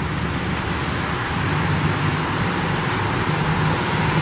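Wind rushing and rumbling over the camera's microphone, a steady noise heavy in the low end.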